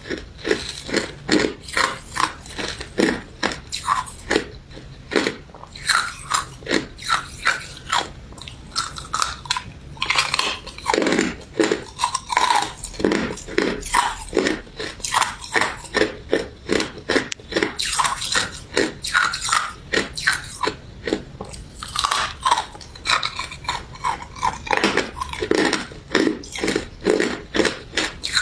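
Close-up biting and chewing of a crunchy crystal ice dessert with citrus jelly: a steady run of crisp crunches, about two to three a second.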